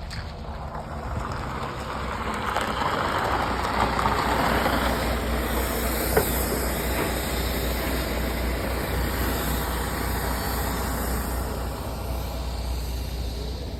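Big rig truck's diesel engine rumbling as the truck moves close by, the noise swelling to a peak around the middle and easing off towards the end, with one sharp tick near the peak.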